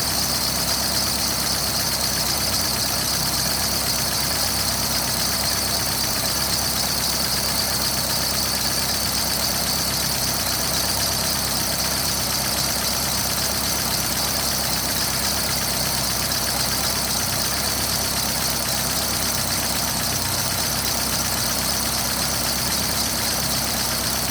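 Engine idling steadily with the tapping of hydraulic lifters (hydraulic lash adjusters), a sign of faulty lifters that need repair.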